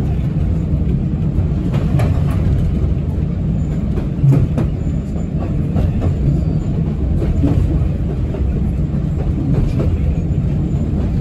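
Steam-hauled passenger train running along the track, heard from aboard: a steady low rumble of the carriage with scattered clicks of the wheels over rail joints, the loudest knock about four seconds in.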